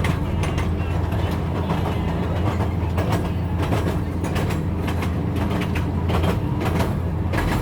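Train running on rails: a steady low rumble with a rapid, irregular clatter of wheels over the rail joints.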